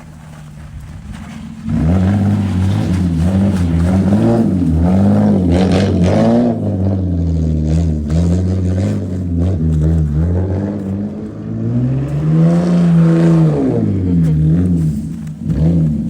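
Car engine revving up and down over and over, starting suddenly about two seconds in, its pitch rising and falling every second or so.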